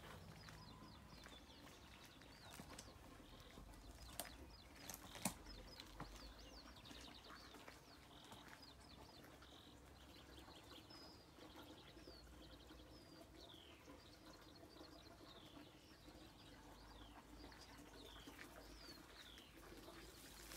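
Faint songbirds chirping, many short falling notes repeated throughout, with a few sharp clicks about four to five seconds in.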